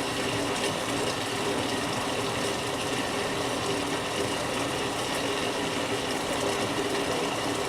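Whirlpool Duet Sport front-load washing machine running a rinse cycle and taking in water: a steady mechanical hum with the rush of the water fill.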